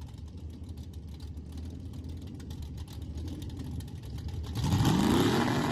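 A 1968 Camaro drag car's small-block Chevy V8 idling, then revving up with a rising pitch and getting louder near the end.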